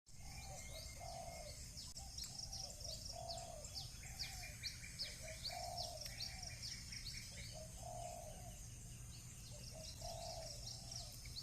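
Small birds chirping, many quick high chirps that sweep downward, over a dove's low cooing phrase repeated about once a second, with a steady low background rumble.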